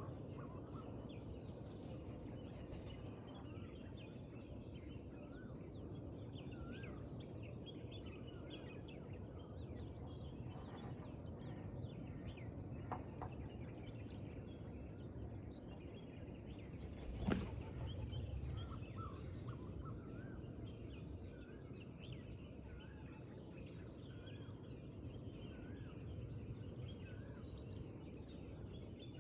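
Morning forest ambience: many small birds calling with short, scattered chirps over a low steady background hiss, with a constant high-pitched whine. One sharp knock about seventeen seconds in.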